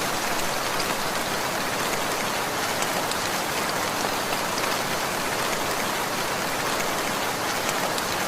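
Steady rainfall on a surface: an even hiss of rain with scattered individual drop ticks.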